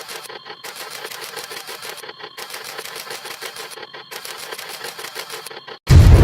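Camera shutter snaps fired in rapid succession, breaking off briefly about every two seconds. Near the end a sudden, much louder, deep sound effect cuts in.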